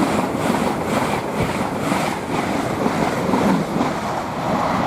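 An IET high-speed train running past on the main line: a steady noise of wheels on rail and air, with a faint regular beat.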